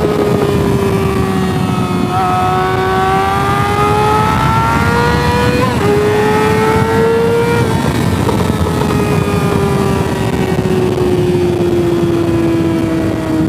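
Sport motorcycle engine running at high revs under way, its note climbing slowly and dropping suddenly about six seconds in as it shifts up. It drops again a couple of seconds later and then falls steadily as the rider eases off, over a loud rush of wind noise.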